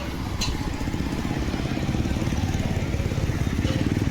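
An engine running steadily with a fast, even low pulse, and a short click about half a second in.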